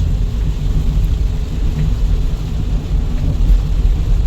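Steady low rumble of a car driving slowly along a wet, water-covered road, heard from inside the cabin.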